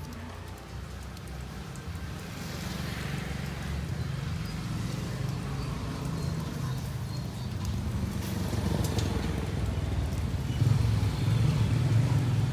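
Low rumble of a motor vehicle's engine, growing louder over the last few seconds as it comes closer.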